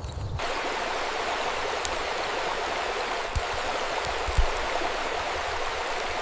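Steady rush of a flowing stream, starting suddenly just under half a second in. A couple of soft low thumps come through it midway.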